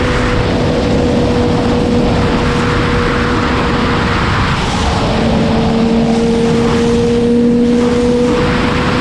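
Sport motorcycle running at speed: wind rushes loudly over the camera and a steady engine note holds at nearly constant revs, shifting slightly about five seconds in.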